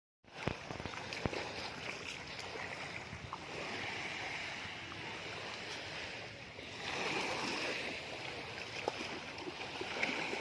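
Small sea waves washing in at the shoreline, the wash swelling twice, with a few light clicks.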